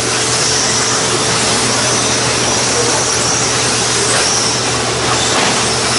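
A pack of 1/10-scale 2WD mod stadium trucks racing on their brushless electric motors: a steady, high-pitched whine of motors and tyres that wavers in pitch as the trucks speed up and slow down.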